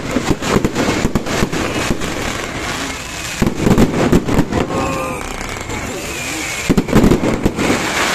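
New Year's fireworks bursting in rapid bangs and crackles, with heavier clusters of bangs about three and a half and seven seconds in.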